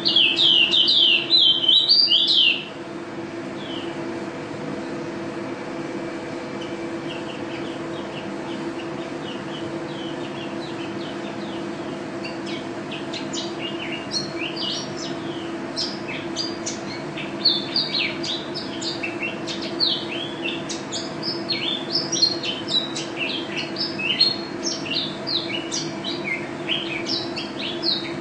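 A white-eye (pleci) singing in rapid, high chirping phrases: loud for the first two seconds or so, then a pause, then softer scattered phrases that grow into continuous chattering song from about halfway through. A steady low hum runs underneath.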